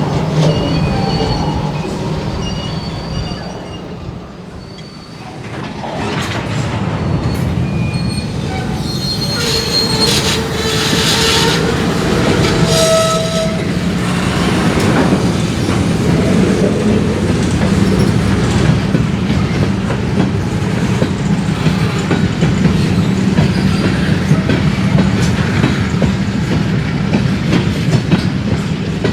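Diesel freight locomotive running under a steady low engine note while freight cars roll through a rail yard. Wheel flanges give several short, high squeals on the yard curves in the first half, and the wheels rattle and click over the track as the cars keep moving.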